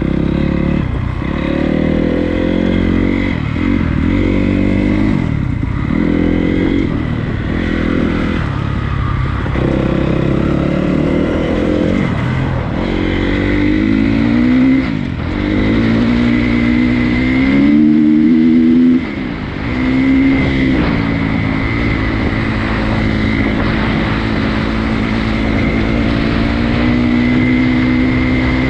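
Honda CRF250 dirt bike's single-cylinder four-stroke engine under way on a trail. The revs rise and fall repeatedly for most of the first twenty seconds, then hold at a steadier, higher pitch.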